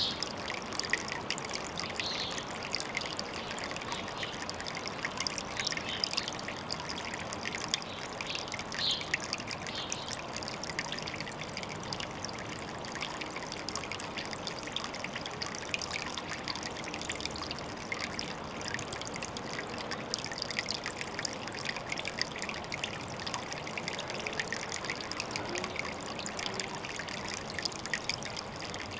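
Water trickling steadily into a pond: a continuous splashing patter with no pause.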